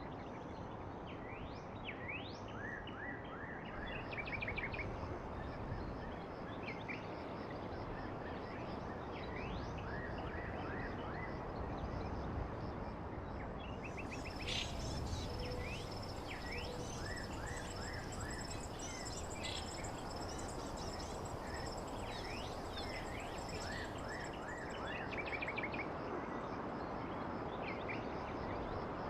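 Outdoor ambience: birds chirping over a steady background hiss. A steady high whine joins in the middle for about ten seconds.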